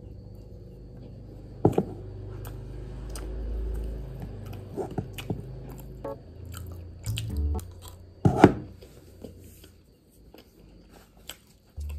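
Close-up chewing of a soft chocolate brownie, with a few sharp clicks and taps, the loudest about eight seconds in.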